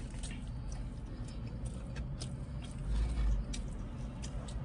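A person chewing a chicken sandwich with faint, scattered mouth clicks, over a steady low rumble, with a short low bump about three seconds in.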